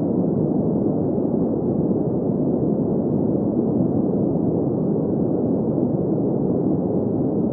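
Steady, unchanging synthesized noise, low and muffled with no hiss at the top: a sleep-aid 'green noise' style drone.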